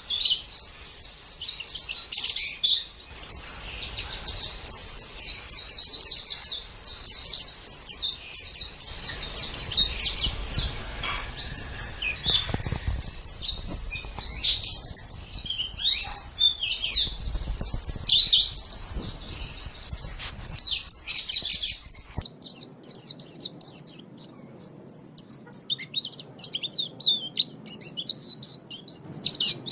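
White-eye (pleci) singing a fast, continuous twittering song of high, quick chirps and trills. About 22 s in the recording changes and the low background noise drops away while the song goes on.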